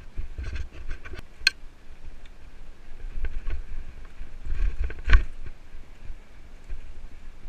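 Mountain bike ridden fast over a forest trail: the bike rattles and knocks over bumps, with sharp hits about a second and a half in and again about five seconds in, over a steady low rumble of wind on the camera microphone.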